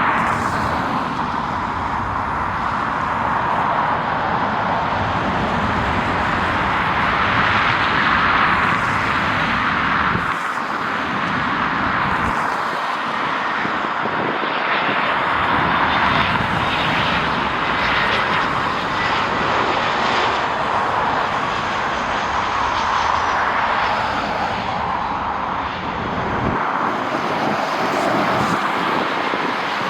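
Jet airliner's engines running, a steady rushing sound with a faint high whine throughout.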